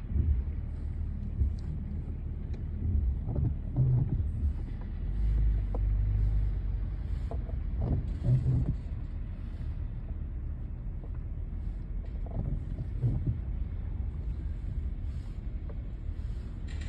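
Low steady rumble of a vehicle in motion, with occasional short knocks and a louder low swell about five seconds in.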